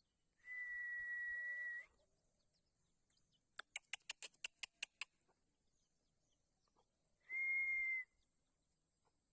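Two steady, flat, high whistle blasts, the first about a second and a half long and the second shorter, with a quick run of about ten sharp clicks between them.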